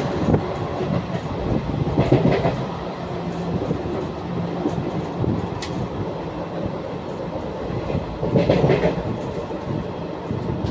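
Passenger train running along the track: a steady rumble of the coaches with occasional knocks of the wheels over the rail joints.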